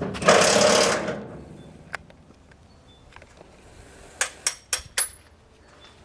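A loud clattering crash lasting about a second, then a single sharp knock, and four quick sharp knocks near the end.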